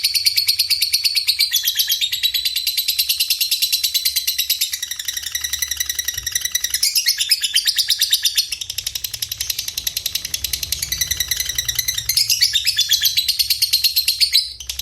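Continuous mixed cage-bird song combining canary, cililin and lovebird: dense, rapid high-pitched trills and chirps with fast repeated notes, shifting phrases every second or two.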